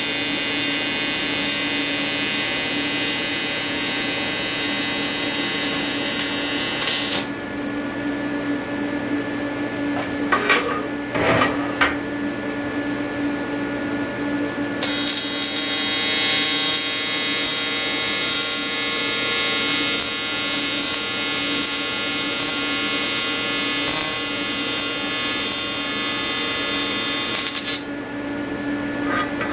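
AC TIG welding arc from an Everlast 325EXT on advanced square wave, buzzing steadily while welding aluminium. The arc stops about seven seconds in and strikes again about halfway through, running until shortly before the end. While the arc is off, only the welder's steady hum and a few light knocks are heard.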